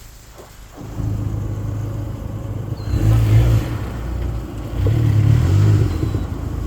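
Turbocharged Dodge Neon engine that comes in abruptly about a second in, then is revved twice, each rev followed by turbo flutter as the throttle closes.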